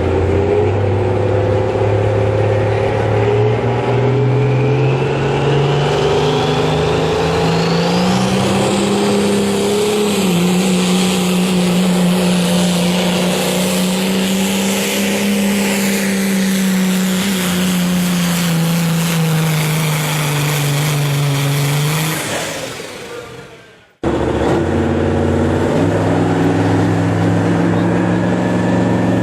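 Modified semi truck's diesel engine under full power pulling a sled. Its pitch climbs over the first several seconds with a high whine rising above it, holds, then sags a little before dying away. After a short break the engine is heard again, revving up.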